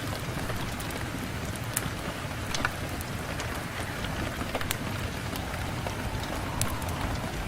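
Steady rain on a window: an even hiss with scattered sharp ticks throughout.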